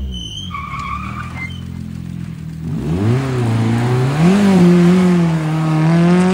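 Rally car engine easing off, then revving hard about three seconds in and wavering in pitch as the car slides, with tyre skid noise and a brief tyre squeal early on.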